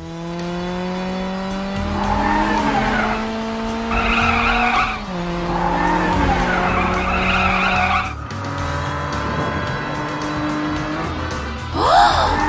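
Cartoon race-car sound effects: an engine revving with its pitch climbing slowly, starting over twice, with wavering tire squeals over it and a sharp squeal near the end.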